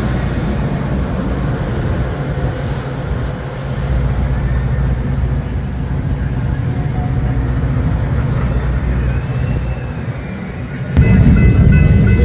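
A train rolling past with a steady rumble. About a second before the end it gives way abruptly to louder music.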